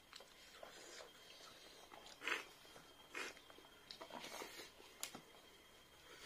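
Faint close-up eating sounds: short wet chewing and mouth noises as chicken and rice are bitten and chewed, coming in a few separate bursts, the loudest about two seconds in.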